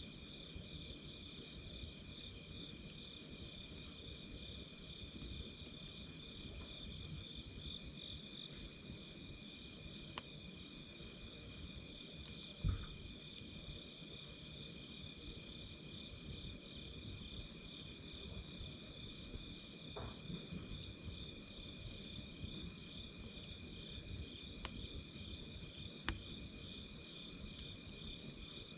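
Campfire crackling, with a scattering of sharp pops, the loudest a little under halfway through, over the steady, pulsing chirring of insects.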